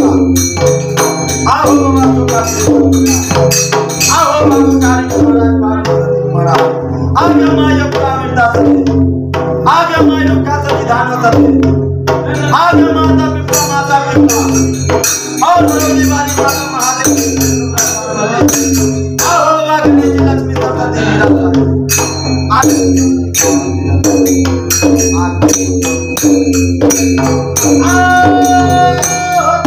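Devotional bhajan: a man singing over a hand drum keeping the theka beat and jhaal hand cymbals striking in steady rhythm.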